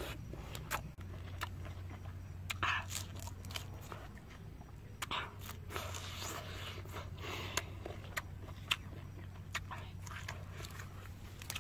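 Close-up mouth sounds of a person eating grilled prawns: irregular wet clicks, lip-smacking and finger-sucking while chewing, over a low steady hum.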